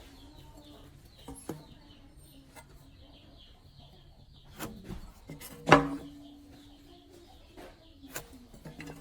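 A small bird chirping over and over, with a few sharp knocks of tools or wood being handled; the loudest is a hard clank with a brief ringing tail about two-thirds of the way through.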